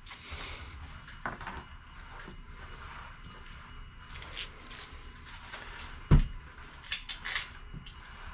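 Hand tools and metal engine parts being handled during engine assembly: scattered light metallic clicks and clinks, with one heavy knock about six seconds in, then a few quick bright clinks.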